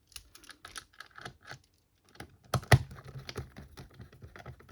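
Small hard plastic and metal parts being handled during reassembly of a cordless screwdriver's casing: quick irregular clicks and taps, with two louder knocks about two and a half seconds in.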